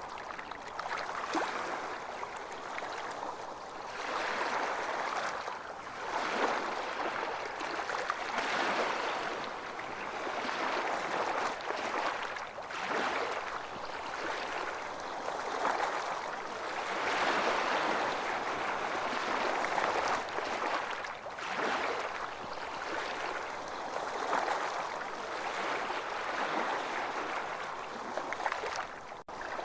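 Ocean waves breaking and washing on a beach, the surf swelling and easing every few seconds, with a brief dropout near the end.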